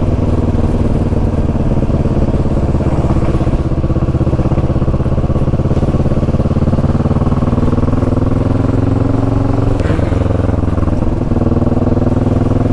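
Motorcycle engine running steadily under way, its note climbing slowly. About ten seconds in the pitch dips briefly, then picks up again.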